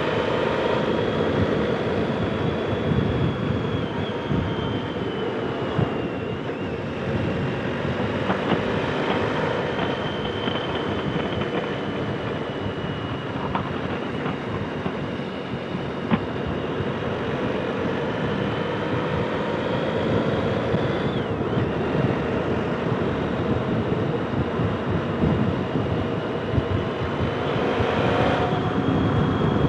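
Motorcycle riding at speed, heard from the rider's helmet: engine running under steady wind rush, its note gently rising and falling through the bends.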